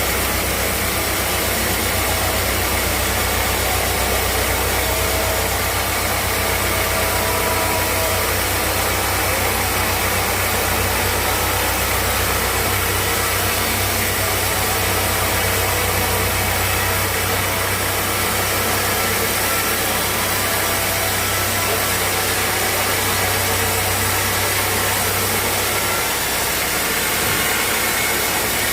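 Sawmill machinery running steadily: a dense, even mechanical noise over a low engine hum, and the hum drops away near the end.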